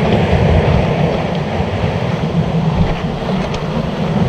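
Steady wind noise on the microphone over the wash of sea waves against shore rocks.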